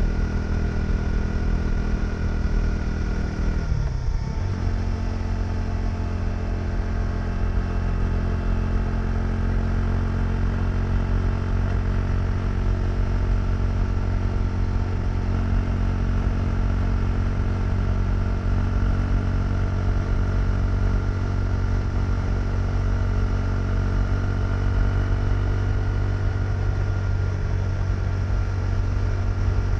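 KTM 390 Duke's single-cylinder engine running under way. The engine note drops sharply about four seconds in, then holds steady at lower revs.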